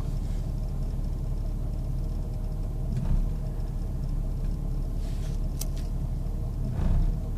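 1998 Jeep Grand Cherokee Laredo engine idling roughly, with brief swells in speed about three seconds in and again near the end, as if it wants to stall out. The owner cannot find the cause of the rough idle.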